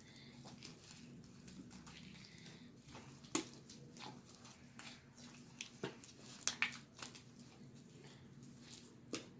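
Slime being mixed and kneaded: a few short, sticky clicks and squelches at irregular moments, a cluster of them past the middle, over a faint low hum.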